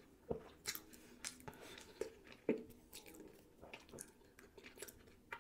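Close-miked chewing of a mouthful of sushi roll: faint, wet mouth sounds with short smacks and clicks at irregular intervals.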